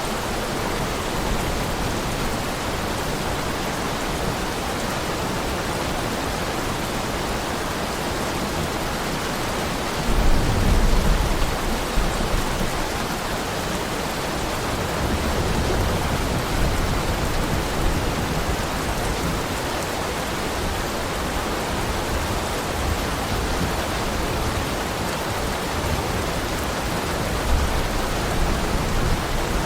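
Heavy rain falling steadily, an even hiss, with brief low rumbles about ten seconds in and again near the end.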